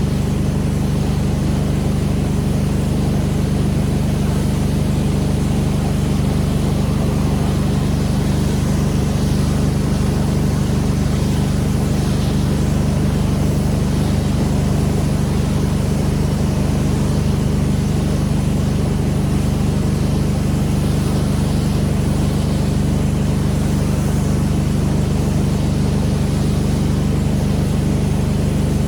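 Pressure washer's engine running at a steady speed, with a constant hiss over it.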